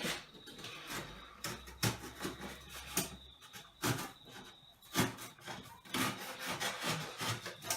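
Blade cutting through the corners of a thick cardboard box: a run of rough scraping strokes, roughly one a second.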